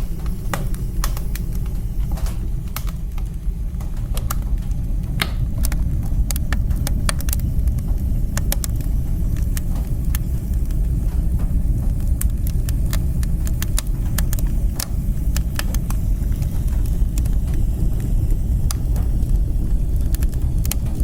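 Fire burning in a fireplace: a steady low rumble from the flames with frequent, irregular sharp crackles and pops.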